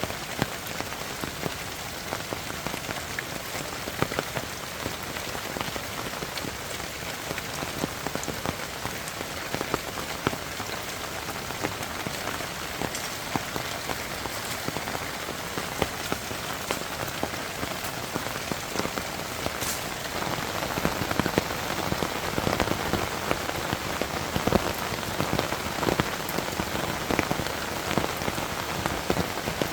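Heavy rain falling steadily, with many individual drops striking a surface; the downpour grows heavier about two-thirds of the way through.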